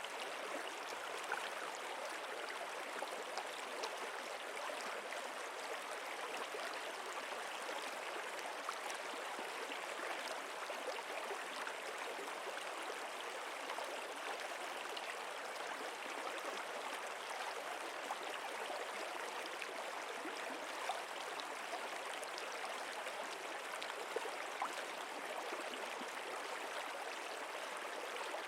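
Stream water flowing steadily, with scattered small ticks of splashing water.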